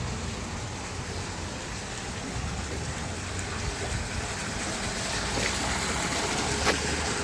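Water running and splashing steadily, with a low hum underneath and one sharp tap near the end.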